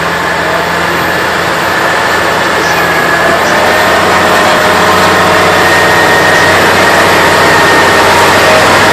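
2023 Massey Ferguson 7S.155 tractor's diesel engine working hard under load as it pulls a weight-transfer sled. The engine runs loud and steady with a high whine that creeps up in pitch, and it grows slightly louder over the stretch.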